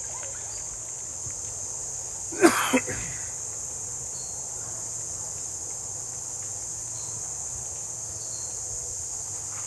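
Insects in the rainforest shrilling steadily at a high pitch. About two and a half seconds in there is a single short, loud, breathy burst close to the microphone.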